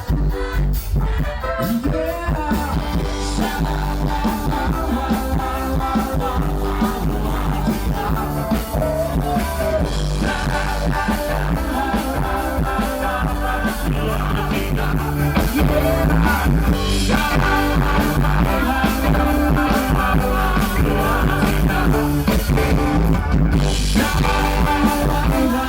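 A live rock band playing a song, with guitar, keyboard, bass and singing. It gets somewhat louder about two-thirds of the way through.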